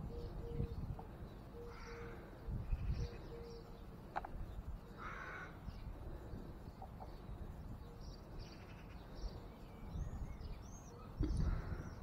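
Birds calling: several harsh calls a few seconds apart and short high chirps, with a trilling phrase near the end, over a steady low rumble.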